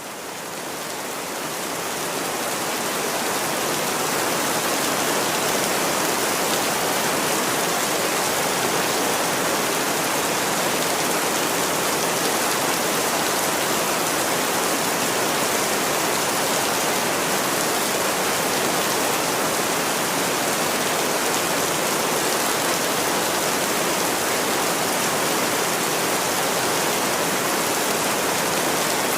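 Steady, dense rain, a continuous even hiss of falling water that fades in over the first few seconds and then holds constant.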